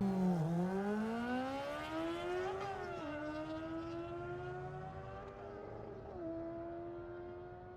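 BMW K1600GTL's inline-six engine accelerating, its pitch rising for the first two and a half seconds. The pitch drops sharply at a gearshift about three seconds in, then climbs slowly, with another small drop about six seconds in.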